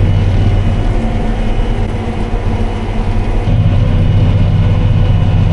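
Tractor's diesel engine running steadily; its low note eases off about two seconds in and comes back stronger at about three and a half seconds.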